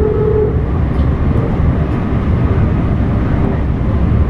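A Meitetsu limited express train running with a loud, steady low rumble. The last held note of its music horn cuts off about half a second in.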